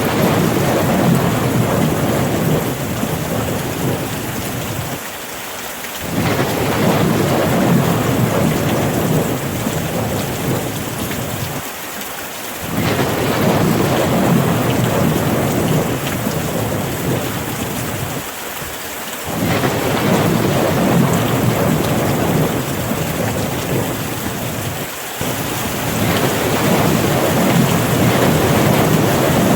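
Steady rain falling in a dense hiss, over a low rumble of thunder. The rumble swells and drops out briefly about every six to seven seconds.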